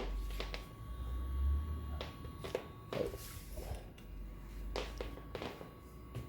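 Irregular taps and clicks over a low rumble: paper sheets being handled and readied at an Inotec Scamax 6x1 production document scanner for a rescan.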